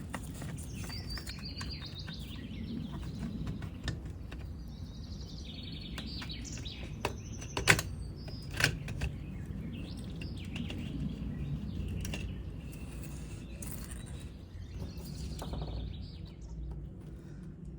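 Small birds chirping over a low steady hum, with a few sharp clicks, the loudest two about eight and nine seconds in.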